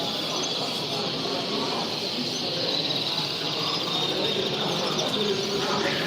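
A flock of small caged birds chirping and chattering together in a dense, steady chorus.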